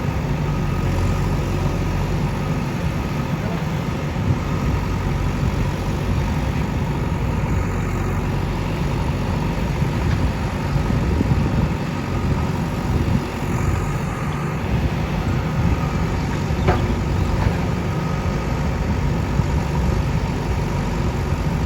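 A vehicle engine running steadily with a low rumble, without revving.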